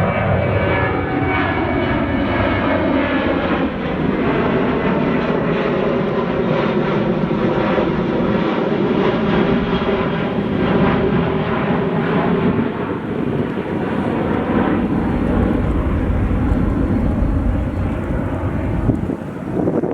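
Jet airliner engines passing close by, their whine sliding down in pitch over the first few seconds, then a steady, loud rumble and whine.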